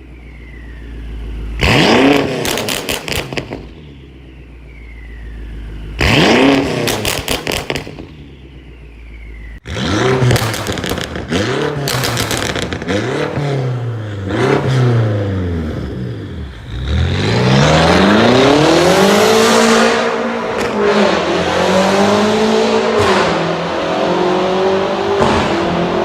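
An engine revving repeatedly, its pitch rising and falling. There are two short sharp blips early on, then quicker up-and-down revs, and after about 17 s a longer, louder run.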